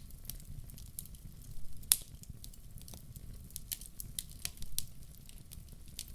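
Wood fire crackling, with irregular sharp pops and snaps, the loudest about two seconds in, over a low steady rumble.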